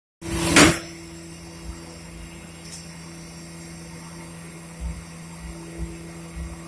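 Mori Seiki CNC machining centre running with a steady hum. A short loud rushing burst comes about half a second in, and a few soft low thumps follow near the end.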